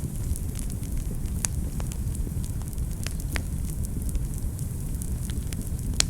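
Wood fire burning in a fireplace: a steady low rumble of flame with irregular sharp crackles and pops, the loudest pop near the end.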